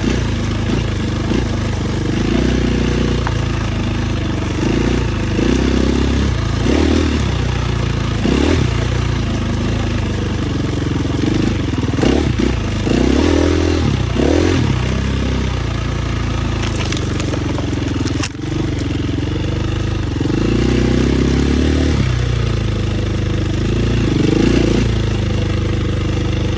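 Dirt bike engine running under way, the revs rising and falling every second or two as the throttle is worked, with a brief drop about two-thirds of the way through.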